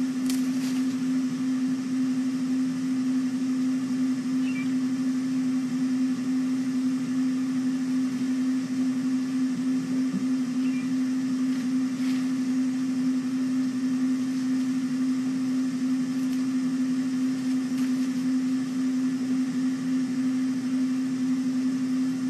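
A steady low hum over a faint hiss, with a few faint clicks.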